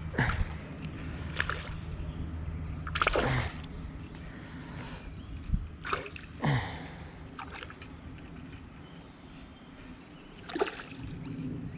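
Several short, separate splashes and sloshes of creek water, as a hooked rainbow trout thrashes at the surface while snagged near the bank.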